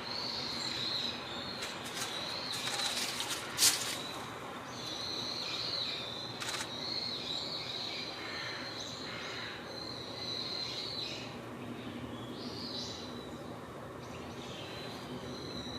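Birds chirping and calling steadily over a low outdoor background rumble. A sharp click comes about four seconds in, with a fainter one near the middle.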